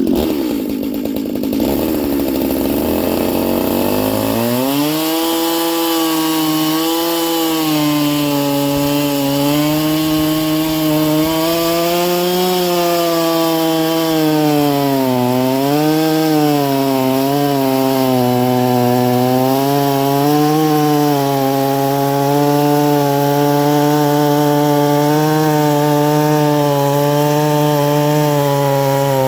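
Stihl 440/046 two-stroke chainsaw with a ported cylinder and tuned exhaust, running. About four seconds in it climbs to high revs and holds there, the pitch wavering and dipping now and then.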